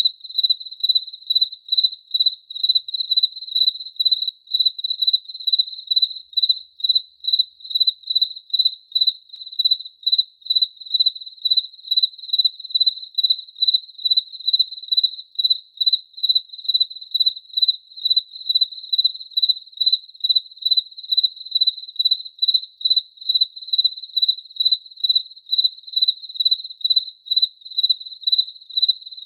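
Cricket chirping steadily: an even run of high chirps, about two or three a second.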